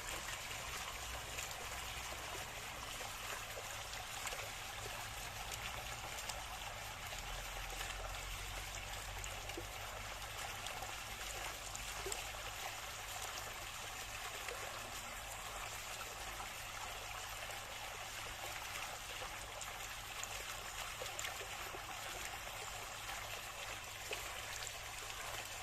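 Water trickling and flowing steadily, like a small stream, with a low rumble underneath.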